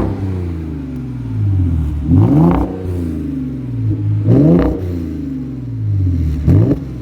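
Audi A5 3.2 V6 petrol engine through a custom exhaust, blipped three times from idle, each rev rising sharply and falling back to a steady idle about two seconds apart.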